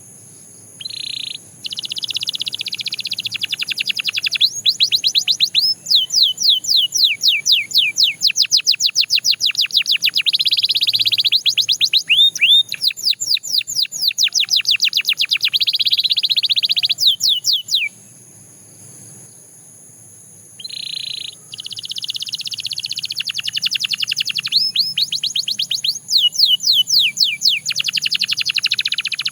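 Domestic canary singing long, loud phrases of rapidly repeated notes, fast falling whistles and buzzy trills, pausing for a couple of seconds about two-thirds of the way through before starting again.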